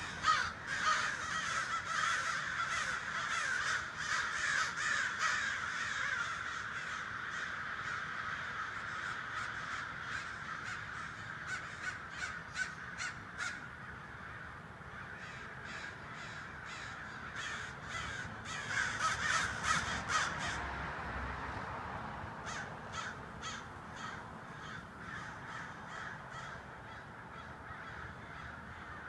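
A large flock of birds calling all at once, a dense chattering din with many overlapping calls. It is loudest over the first few seconds, thins out, then swells again about two-thirds of the way through.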